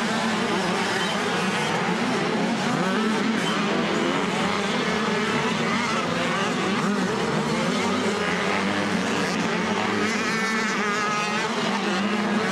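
Several 85cc two-stroke motocross bikes racing together, engines revving up and down in overlapping, wavering notes.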